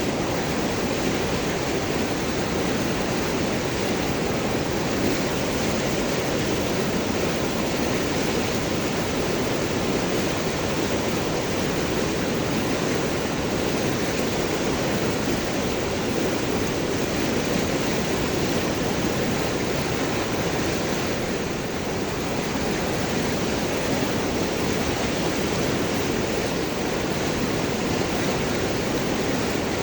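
River water rushing and gurgling over large rocks, a steady full rush with no let-up.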